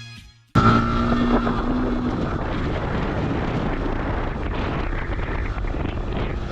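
Background music fading out, then a sudden cut to steady wind rushing over the microphone of a moving motorcycle, with road and engine noise beneath it. A short steady tone sounds just after the cut.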